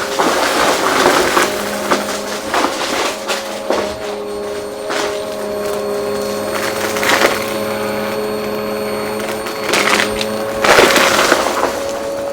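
Vacuum cleaner running with a steady motor hum while crunchy debris crackles and rattles up the suction in repeated bursts, the loudest near the end.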